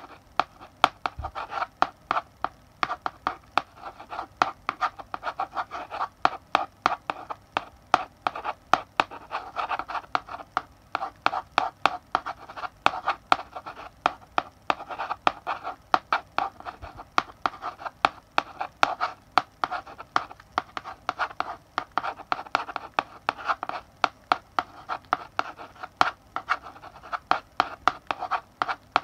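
Chalk writing on a blackboard: a continuous run of quick taps and short scratchy strokes as letters are written, a few strokes a second, with brief pauses between words.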